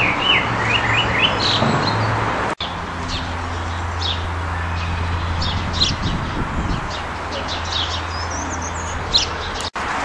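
Small birds chirping: a quick run of short falling chirps in the first second, then scattered short high calls, over a steady background hiss and low hum.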